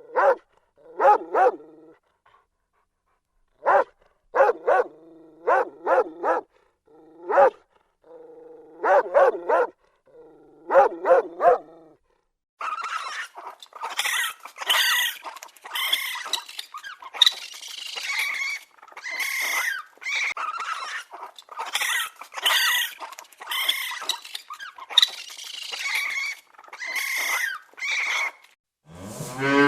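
Dogs barking: short barks in clusters of two to four for about twelve seconds, then a brighter, higher-pitched run of rapid barks and yelps. A cow's low moo begins just before the end.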